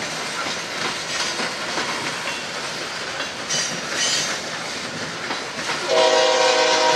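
Freight train of loaded hopper cars rolling slowly past, with steady steel-wheel clatter on the rails. About six seconds in, a locomotive's multi-note horn starts sounding, a held chord that is louder than the rolling cars.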